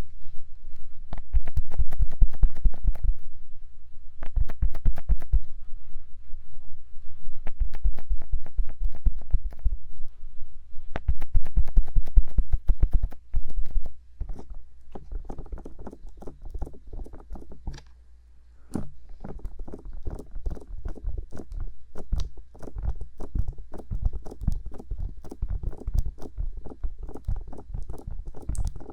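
Rapid fingertip tapping on the silicone ears of a 3Dio binaural microphone, with dull thumps close in the ear. It comes in quick runs for about the first thirteen seconds, then after a short break goes on as lighter, steadier tapping.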